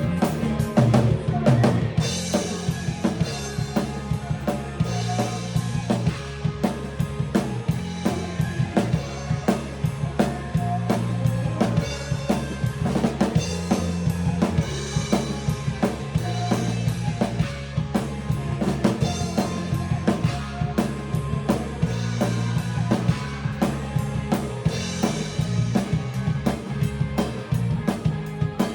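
Drum kit played in a steady rock groove, with kick, snare and cymbals, over a backing of bass and other instruments.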